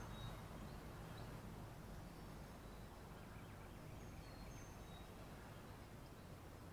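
Faint outdoor background noise with a low steady hum, and a few brief, high bird chirps scattered through it.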